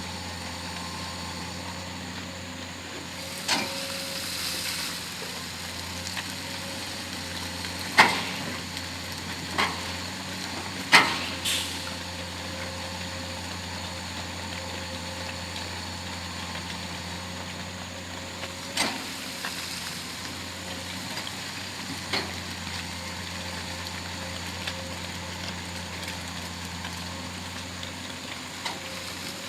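Excavator's diesel engine running steadily, with sharp metallic clanks now and then, the loudest about eight and eleven seconds in, and a short rushing noise around four seconds in.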